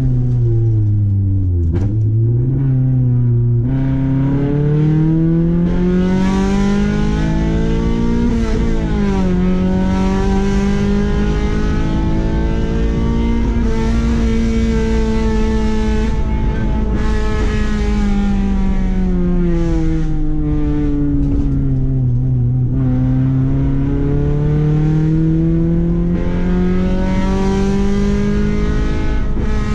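Honda H22A Euro-R four-cylinder VTEC engine with a 4-2-1 header and 3-inch exhaust, heard from inside the car's cabin as it pulls through the gears. Its pitch climbs and drops sharply at shifts about two, three and a half and eight and a half seconds in, eases off a little past twenty seconds, then builds again near the end.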